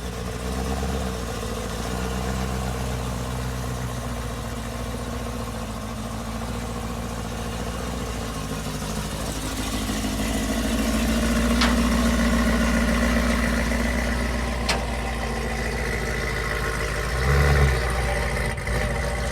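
Supercharged V8 of a modified Camaro ZL1 idling, with a brief rise in engine speed about halfway through. Two sharp clicks and a short low thump come near the end.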